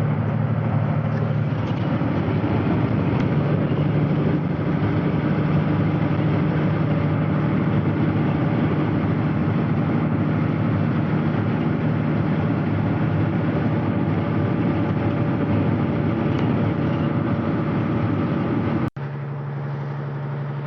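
Semi-truck's diesel engine and road noise from inside the cab while driving: a steady drone. About nineteen seconds in, the sound drops out for an instant and comes back as a quieter, steadier engine hum.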